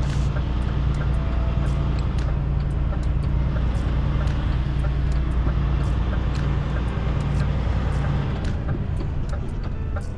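Semi truck's diesel engine running as heard from the cab, its low drone easing off about eight seconds in, with regular light ticking over it.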